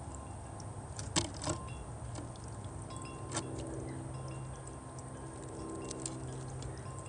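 Wind chimes ringing softly under scattered short bird chirps, with a few sharp clicks about a second in and again near the middle.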